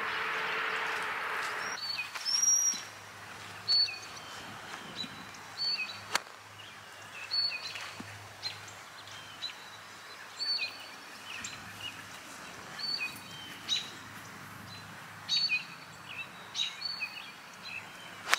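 A bird chirping in short, high calls, repeated about every second. A steady rushing noise during the first couple of seconds stops abruptly.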